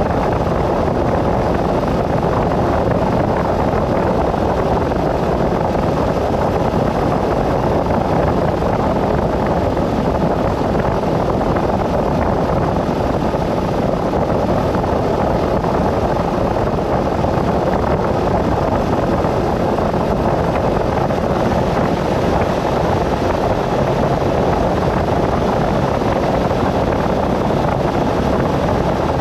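Steady road and wind noise from a vehicle driving along at speed, an even rush that holds level throughout.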